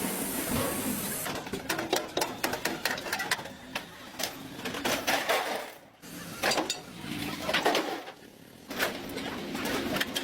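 Irregular clicking and scraping of hand tools working on metal, in bursts with short pauses.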